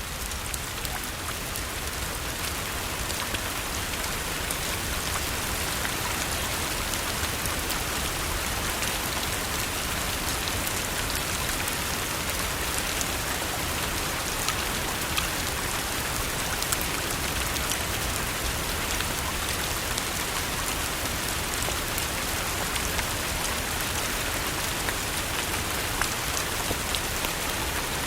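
Steady rain falling, a dense even hiss with scattered small sharp clicks, fading in over the first few seconds.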